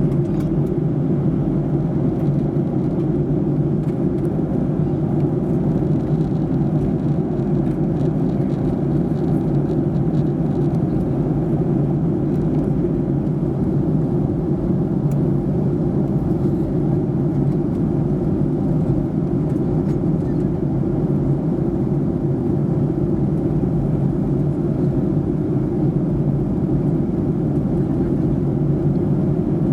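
Steady cabin roar of a Boeing 737-800 in flight: its CFM56-7B engines and the airflow over the fuselage make an even, deep rushing noise that holds level throughout.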